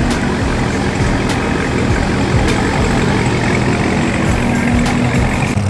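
Car engine running steadily, with a brighter hiss building a little near the end.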